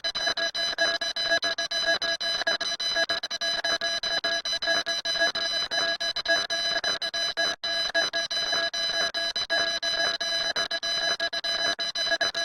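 A harsh electronic alarm tone holds a steady pitch with a rapid flutter, cutting out for an instant about halfway through.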